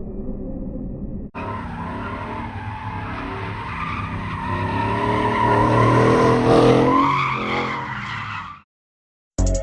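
A truck engine revving hard while its tyres squeal and skid, as in a burnout. The sound builds to its loudest about six seconds in, then cuts off abruptly near the end, after a low engine rumble at the start.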